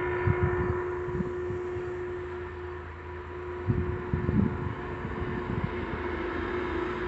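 BNSF intermodal freight train's diesel locomotives running, a steady low rumble with a constant hum over it and a couple of brief heavier bumps about halfway through.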